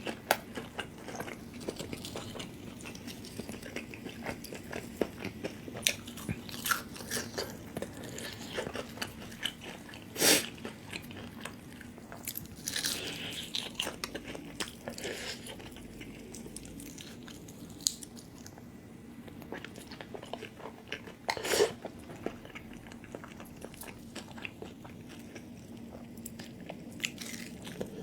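A person biting and chewing fried chicken close to the microphone, with small mouth clicks throughout and two sharp bites, about ten and twenty-one seconds in.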